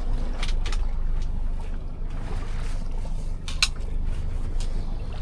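Small fishing boat's engine running steadily as the boat gets under way, a steady low rumble with water noise, and a few light clicks about half a second in and again past three and a half seconds.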